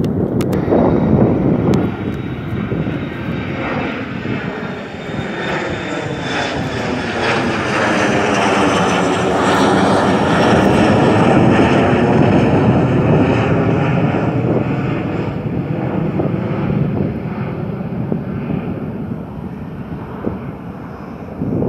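Departing airliner's engines roaring as it climbs out past overhead. The roar swells to its loudest about halfway through with a sweeping, phasing sound, then slowly fades away.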